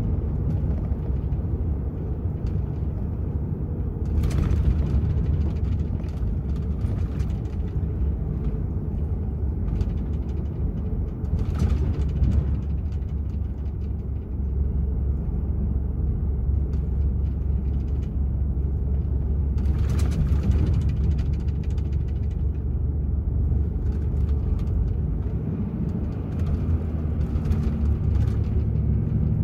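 DAF XF 480 truck's six-cylinder diesel engine running with steady road rumble while driving. A few brief clatters break in now and then.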